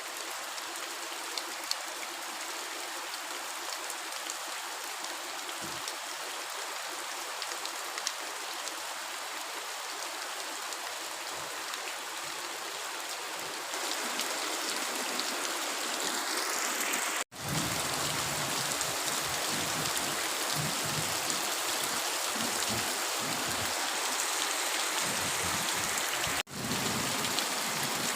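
Heavy rain falling steadily, growing louder about halfway through, with two momentary dropouts in the sound.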